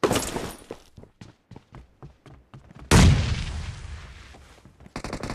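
Video-game gunfire: a shot at the start, then a string of fainter irregular taps, then a loud boom about three seconds in that dies away over two seconds. Rapid automatic fire begins near the end.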